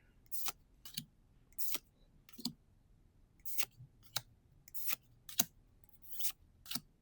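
Gundam Card Game trading cards being slid and flipped one at a time from an opened pack: about ten short, crisp swishes and snaps, irregularly spaced.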